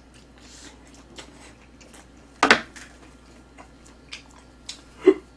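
Quiet chewing and mouth sounds from a person eating grilled pork belly, with scattered small clicks, one sharp click about two and a half seconds in, and a short hummed vocal sound near the end.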